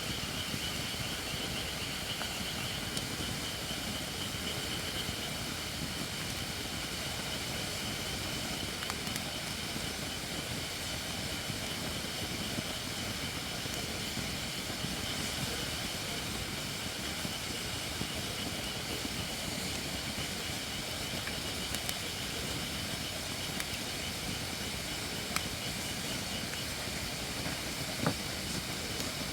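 Campfire of Japanese white oak (shirakashi) firewood burning, with a steady hiss of moisture steaming out of the not-yet-dry logs. A few scattered crackles, a sharper pop near the end.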